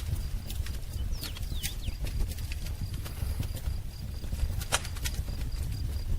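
Wood fire crackling, with irregular sharp pops over a steady low rumble; the loudest pop comes just before five seconds in. Faint bird chirps come in about a second in.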